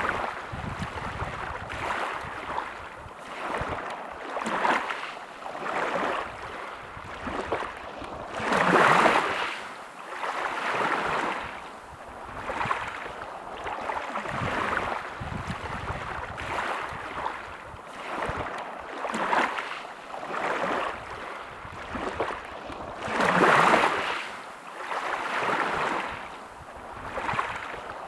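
Ocean waves washing onto a shore, a hiss of surf that swells and fades every second or two, with two bigger waves breaking about nine seconds in and again near the end.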